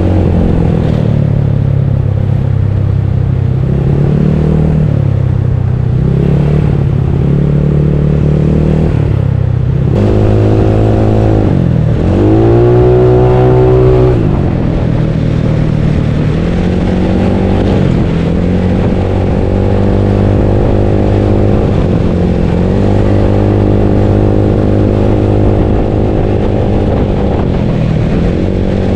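Bored-up Yamaha Mio scooter engine running under way, its note rising and falling with the throttle. About ten seconds in the revs rise, dip briefly, climb again and fall back a few seconds later.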